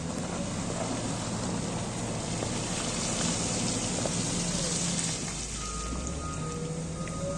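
Caterpillar 140GC motor grader's diesel engine running under a steady gritty hiss, with its reversing alarm starting to beep about five and a half seconds in.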